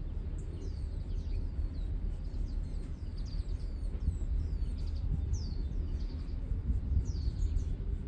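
Small birds chirping, many short falling chirps scattered throughout, over a steady low background rumble.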